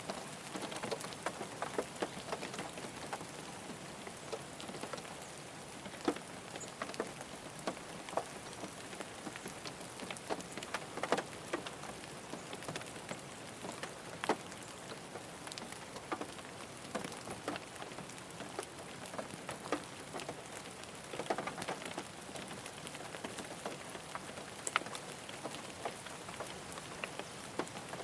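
Steady rain falling on a car, an even hiss with many single drops ticking sharply and irregularly on the bodywork.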